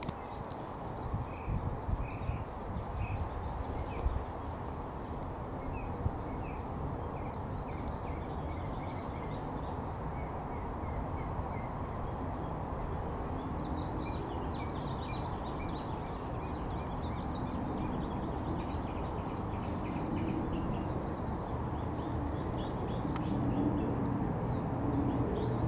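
Small birds chirping faintly in short bursts over a steady low rumble of outdoor background noise. Near the end a low drone grows a little louder.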